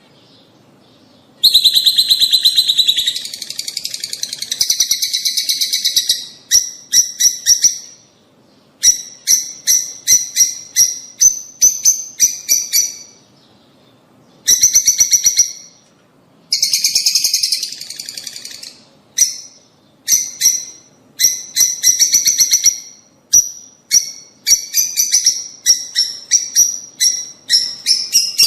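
A flock of lovebirds (rosy-faced and Fischer's) chattering: bursts of shrill, rapid chirping calls with short pauses between them, starting after about a second and a half. This is the kind of flock chatter played to lovebirds to stimulate them to breed.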